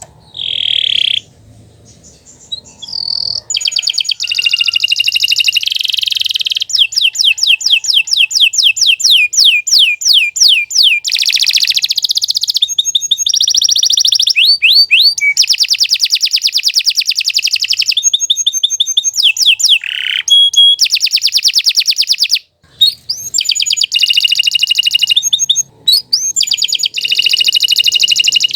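Domestic canary singing a long, unbroken song of rapid high trills and rolling repeated notes. The song is quieter for a couple of seconds near the start and breaks off briefly twice near the end.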